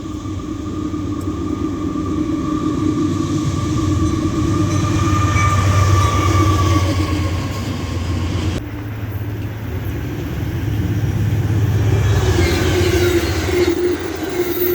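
Railway locomotive running past, its engine droning steadily with a whine that falls slightly in pitch midway. The sound drops abruptly a little past halfway, then builds up again.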